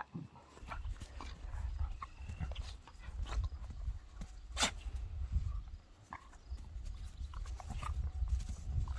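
Puppies moving about and scuffling close to the microphone, with short rustles and clicks over a low rumble.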